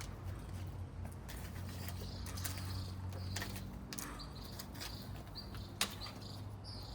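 Small birds chirping in short, high, repeated calls, over scattered clicks and scrapes of hand work in the garden, with one sharp click just before six seconds in.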